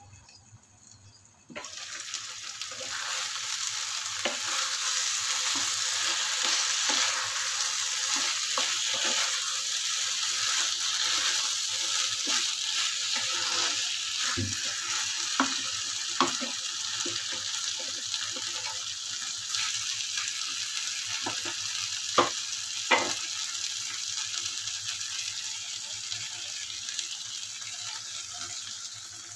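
Marinated chicken sizzling in oil in a nonstick frying pan, a steady hiss that starts suddenly about a second and a half in, with a spatula scraping and knocking against the pan; two louder knocks come about two thirds of the way through.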